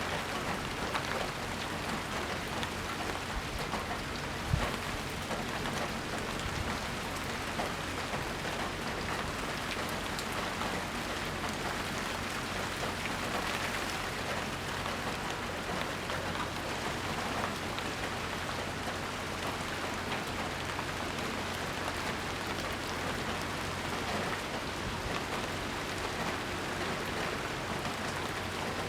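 Steady rain falling and pattering on surfaces, with many small drop ticks, and a single low thump about four and a half seconds in.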